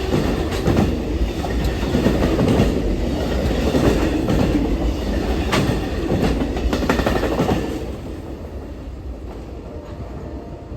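Railcars of a passing Amtrak Auto Train rolling by: a steady rumble with wheels clicking over rail joints. The sound drops off noticeably about eight seconds in.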